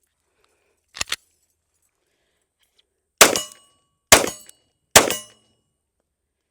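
Springfield XD-S .45 ACP subcompact pistol with a 3.3-inch barrel firing three shots a little under a second apart, after a sharp double click about a second in.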